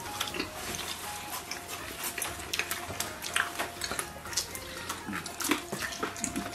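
Wet chewing and lip-smacking of people gnawing roast lamb off the bone, many short clicks, over soft background music.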